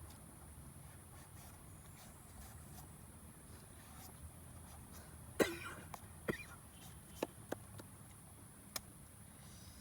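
A person coughs once, about halfway through, followed by several short sharp clicks, over a steady high hiss.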